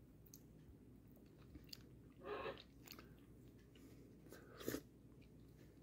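A person faintly chewing and eating a grapefruit section, with two short, louder mouth sounds about two seconds and four and a half seconds in.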